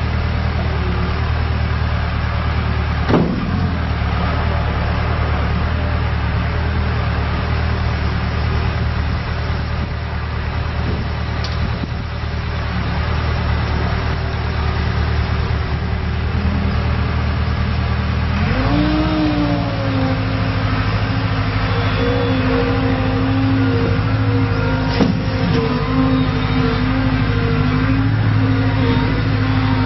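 2012 Volvo MC110C skid steer loader's engine running steadily at low speed, with a single sharp knock about three seconds in. About eighteen seconds in, the engine is throttled up, and it then holds a steady higher speed.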